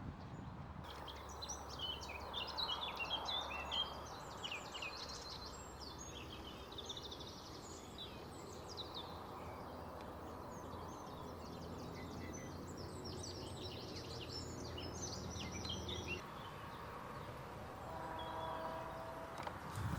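Small birds singing, with many quick chirps and trills overlapping, over a steady background of wind and low noise. The birdsong fades out a few seconds before the end, and a faint held tone comes in near the end.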